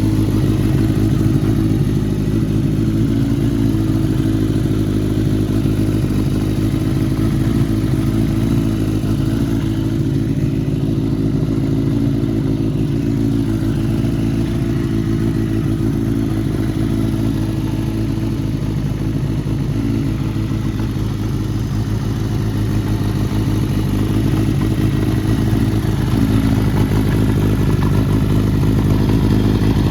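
Kawasaki Z750GP's air-cooled inline-four engine, fitted with CR carburettors and an aftermarket muffler, running steadily at idle.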